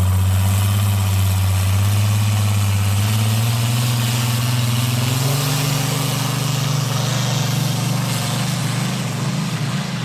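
Competition pulling tractor's engine running hard under load, its pitch climbing slowly and steadily through the pull.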